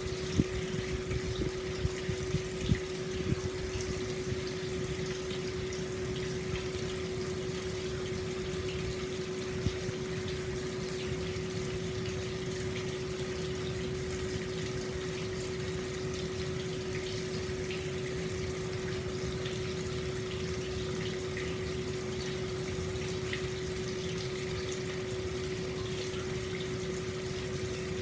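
Hot spring water pouring steadily into an open-air bath, a continuous splashing flow with a steady hum underneath. The low splashing is more uneven for the first few seconds before it settles.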